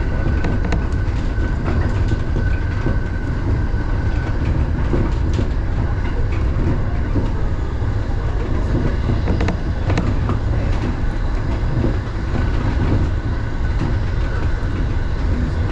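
Electric commuter train running at speed, heard from inside the driver's cab: a steady rumble of wheels on the rails with scattered clicks over the rail joints. A thin steady whine fades out about four seconds in.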